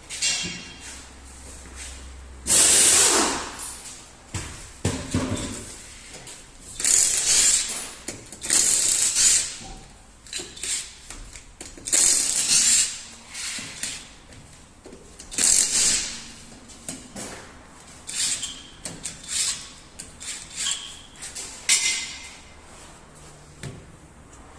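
Irregular short bursts of hissing, each about a second long, with clatter between them.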